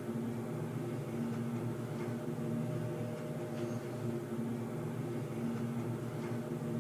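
Underground ambience: a steady low drone made of several held tones over a hum, with a few faint ticks.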